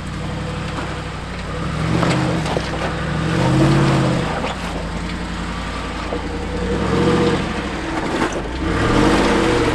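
Jeep Wrangler engine running and revving up and back down about four times.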